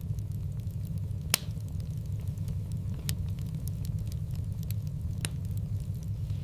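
Wood fire in a fireplace crackling: a steady low rumble of the burning fire with scattered sharp pops and faint ticks, the loudest pop about a second and a half in and others near three and five seconds.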